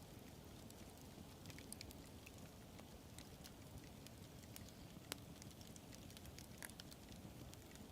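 Wood fire crackling: a low steady rush with frequent small snaps and pops, and one sharper pop about five seconds in.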